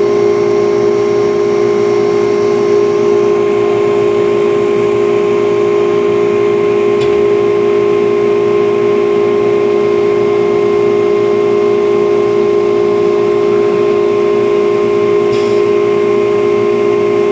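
Acctek ATC CNC router running, with a steady machine whine held at one pitch over a constant hum. There is a single short tick about seven seconds in.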